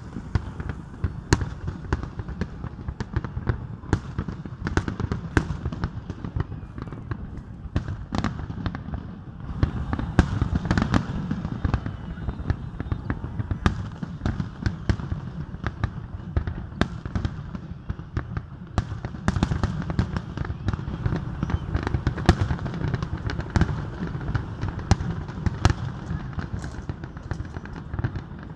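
Fireworks display: aerial shells bursting in rapid succession, with many sharp bangs over a continuous low rumble.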